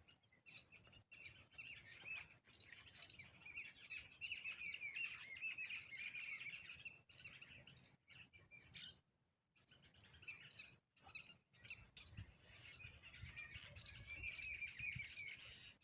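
Faint chirping of small birds, many quick twittering calls, busiest in the middle and again near the end, with scattered faint clicks.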